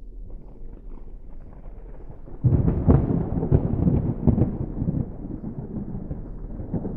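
A 5.7 Hemi V8 pickup exhaust rumbling. It jumps sharply in level about two and a half seconds in, with a few loud uneven pulses, then settles into a steadier, lower rumble, in the way an engine catches and drops to idle.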